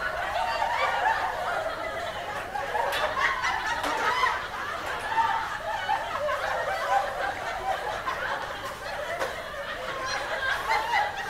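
Many people laughing at once, with overlapping snickers and chuckles that run on without a break.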